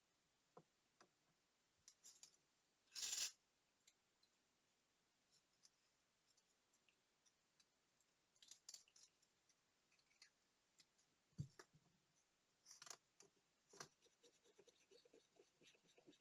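Small tools and tiny watch parts being handled: scattered light clicks and taps, a short scrape about three seconds in, a low knock about eleven seconds in, and a run of quick light clicks near the end.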